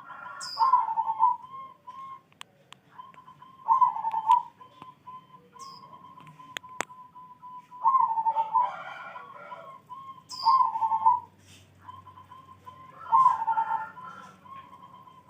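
Zebra dove (perkutut) cooing: a steady run of soft, rapid coo notes broken about every two to four seconds by a louder rolling cooing phrase, five phrases in all. A few short high chirps and a couple of faint clicks sound between them.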